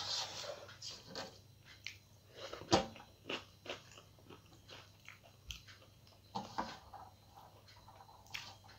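Close-up eating sounds: a person chewing food with crunches. They come as a string of short crackles and clicks, with one sharper click a little under three seconds in.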